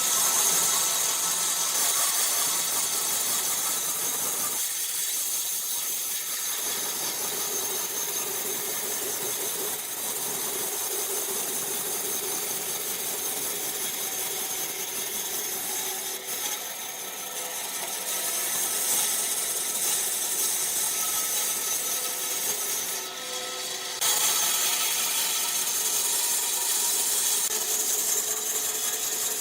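Woodworking power tools cutting wood: a steady high-pitched cutting noise that changes abruptly about 24 seconds in.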